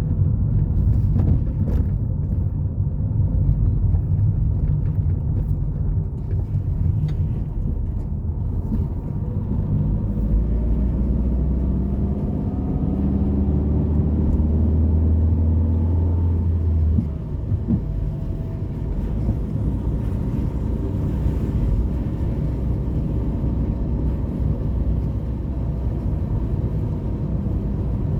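Steady low road-traffic rumble. From about ten seconds in, a nearby vehicle engine is heard accelerating, its pitch rising, until it stops abruptly about seven seconds later.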